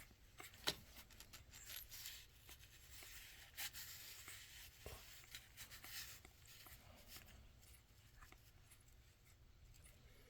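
Puppies suckling: faint, scattered wet clicks and rustling, with a sharper click about a second in.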